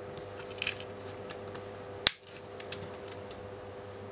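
Plastic clicks from handling a toy Shift Car: a couple of light ticks, then one sharp click about two seconds in, over a steady background hum.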